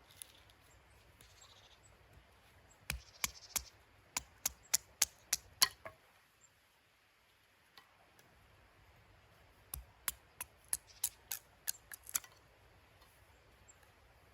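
Two runs of sharp, dry clicks or snaps, about three or four a second. Each run lasts two to three seconds, and there is a pause of a few seconds between them.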